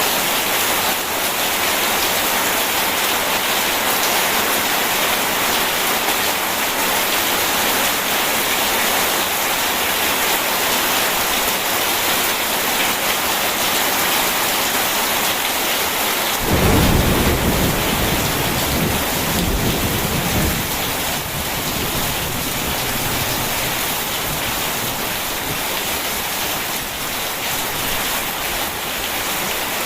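Steady rain falling, with a roll of thunder that breaks in a little past halfway, rumbles low for about four seconds and fades back under the rain.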